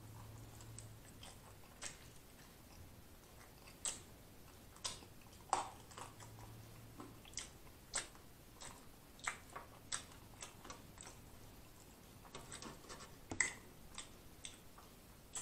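Close-miked eating sounds: chewing and wet lip smacks as fingers greasy from fried food are licked. These come as irregular soft clicks, with a small flurry near the end.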